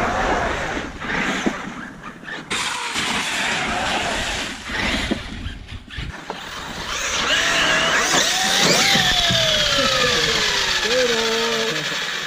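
Electric motor of a large RC monster truck revving in short bursts, then a long whine that rises and falls steadily in pitch as the truck slows.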